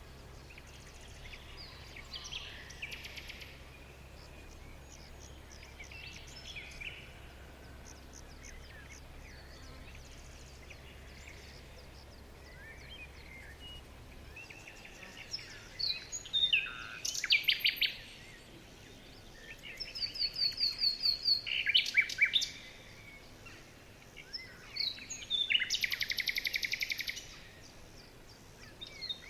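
Several songbirds singing and chirping: soft, scattered calls at first, then from about halfway louder, closer songs with rapid trills of quickly repeated notes.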